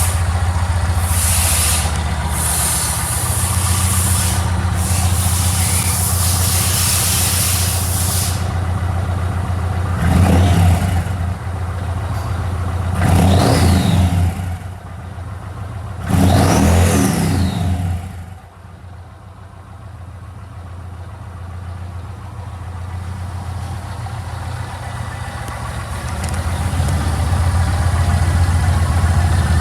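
Yamaha MT-01's 1670 cc V-twin idling with a deep, even beat, revved three times about ten, thirteen and sixteen seconds in, each blip rising and falling back. After the third blip the idle drops quieter for several seconds, then grows louder again near the end.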